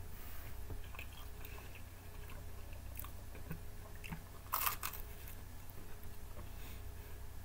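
A person biting and chewing bacon from a pizza, with scattered small mouth clicks and one loud bite about four and a half seconds in, over a steady low hum.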